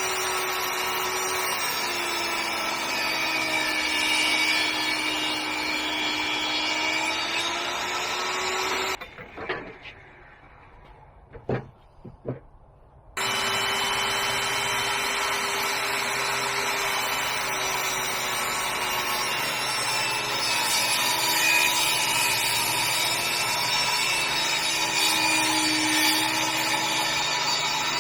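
Chainsaw cutting through a log, its engine pitch wavering with the load. It drops out for about four seconds in the middle, where a few knocks are heard, then resumes cutting.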